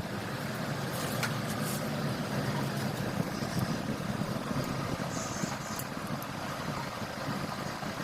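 A motor vehicle engine idling steadily, with a few faint clicks over it.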